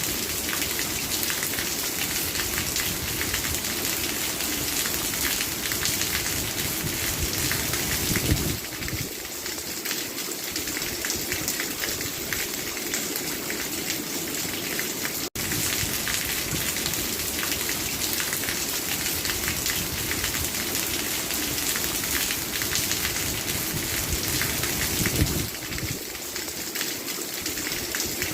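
Steady rainfall, an even dense hiss of rain hitting surfaces, broken by a split-second dropout about halfway through.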